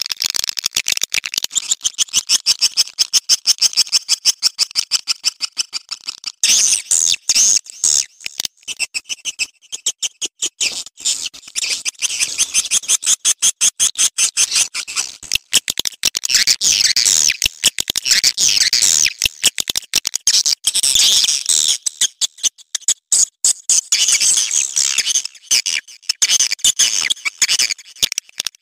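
Swiftlets calling: rapid, high-pitched clicking chirps in fast repeated trains. It is a swiftlet mating-call recording. About six seconds in, the calls thicken into several overlapping chirping voices.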